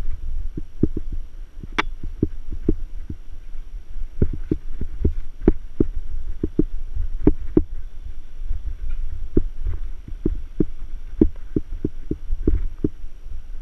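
Mountain bike rolling over rough trail: an irregular run of knocks and rattles, two or three a second, over a steady low rumble, with one sharper click about two seconds in.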